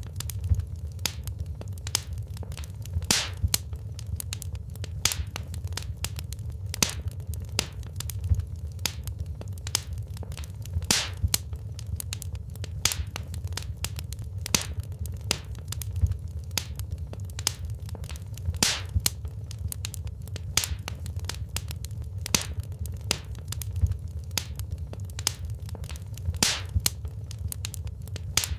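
Wood fire burning in a fireplace, crackling: frequent irregular sharp pops and snaps, some louder than others, over a steady low rumble.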